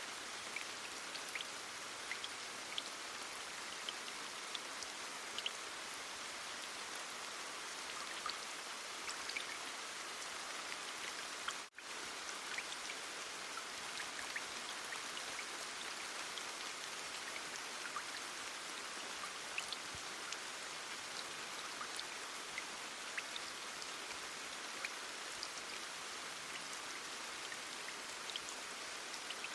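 Heavy rain falling steadily, an even hiss dotted with small sharp drop ticks. The sound cuts out for an instant about twelve seconds in.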